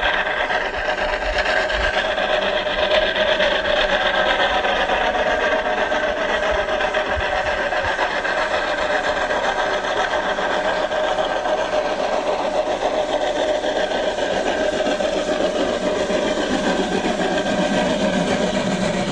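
A train running: a steady, dense rushing noise with several held tones that waver slightly, at an even level throughout.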